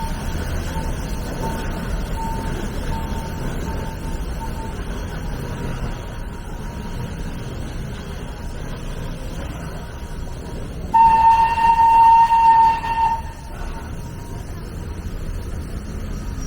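Steady low rumble with faint repeated beeping in the first few seconds. About eleven seconds in, a steam locomotive whistle, that of a Shay-type geared engine, blows one loud single-pitched note for about two seconds.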